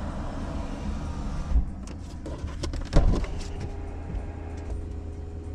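Tesla's power window running up and sealing shut about a second and a half in, cutting off the outside noise, followed by a few clicks and one loud thump inside the car over a low steady hum.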